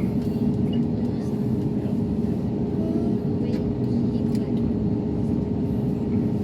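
Steady low rumble with a constant mid-pitched hum, as heard inside a vehicle with its engines running.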